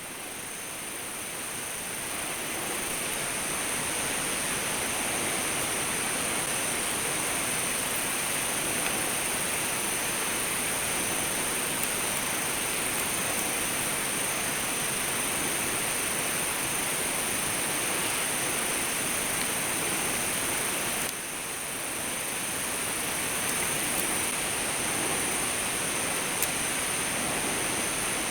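Steady rushing noise like running water, with a steady high-pitched whine on top. It drops briefly about 21 seconds in and returns, with a few faint clicks.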